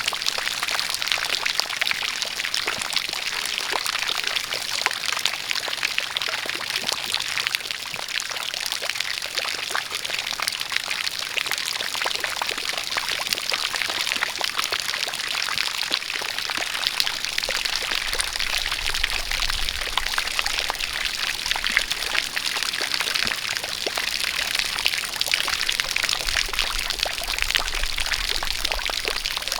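Rain falling steadily together with a continuous jet of water pouring, a dense even hiss full of fine patters. A faint low rumble joins about halfway through.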